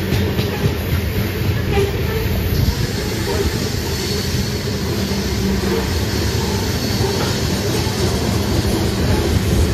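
Train rolling past on the rails: a steady rumble of wheels on track, with a faint high wheel squeal about four seconds in.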